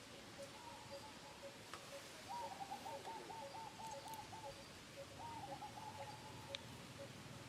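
Faint bird calls: a trill of rapid repeated notes twice, over another bird's soft single note repeating about twice a second.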